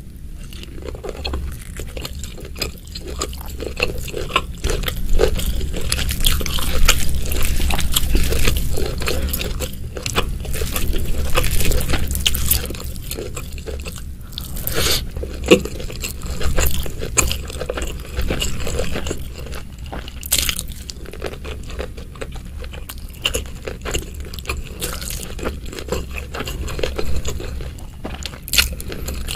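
Close-miked eating sounds: biting and wet chewing of stuffed squid in gulai curry sauce and rice, with many small irregular mouth clicks and smacks. A steady low hum runs underneath.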